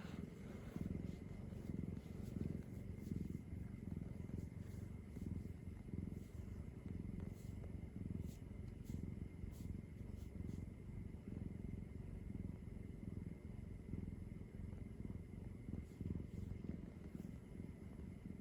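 Domestic cat purring steadily close by, a low rumble that swells and eases in a slow, even rhythm.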